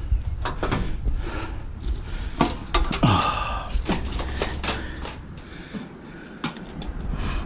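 Appliance scrap parts being handled and knocked about: a run of sharp clanks and knocks, the loudest a ringing metallic clank about three seconds in.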